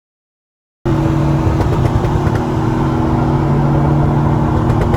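Car engine and exhaust running loudly at a steady engine speed, with road and wind noise, cutting in abruptly about a second in. Most likely the C6 Corvette's V8 with aftermarket headers and exhaust, cruising before a pull.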